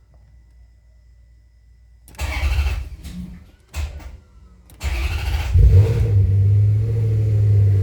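Maserati GranSport's 4.2-litre V8 being started: the starter cranks in two short bursts that die away after less than a second each, then on the next try the engine fires about five seconds in, revs up and settles into a steady idle. The starter's cut-off after under a second and the repeated tries are the hard-starting fault that appeared after the alternator was replaced.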